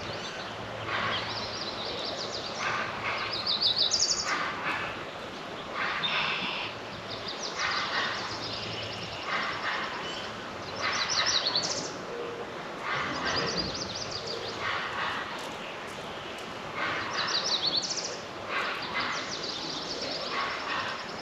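A songbird singing a repeated phrase every several seconds, each phrase ending in a rapid high trill that sweeps upward.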